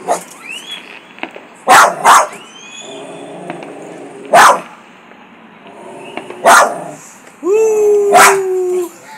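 A dog barking loudly in sharp single barks, about five in all, with a long drawn-out howling bark near the end.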